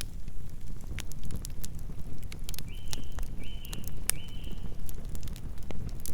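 Campfire crackling and popping over a steady low rumble of burning wood. Three short, high chirps come in quick succession around the middle.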